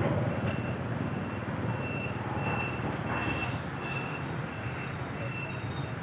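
Short high electronic beeps repeating about twice a second over continuous motorbike and street traffic noise; near the end the beep shifts to a higher pitch.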